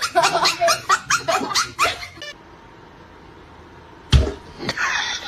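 A pet's quick run of short pitched calls for about two seconds, then a pause and a sudden thump about four seconds in.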